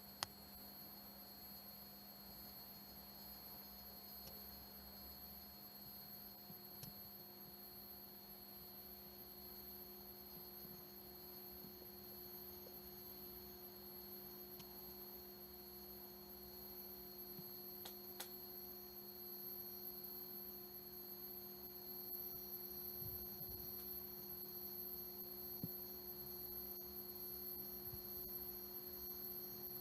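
Bulova Accutron 219 tuning-fork watch humming: the faint, steady, single-pitched hum of its vibrating tuning fork, which comes in clearly about seven seconds in, with a few soft clicks.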